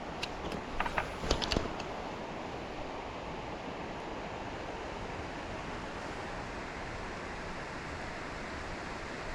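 Steady rushing of flowing creek water, with a few sharp clicks in the first two seconds.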